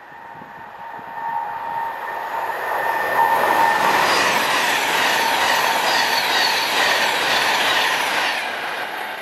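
Virgin Trains Class 390 Pendolino electric train approaching and passing at speed: a rush of wheels on rail and air that builds over the first three seconds and then stays loud and steady, with a steady whine running through it.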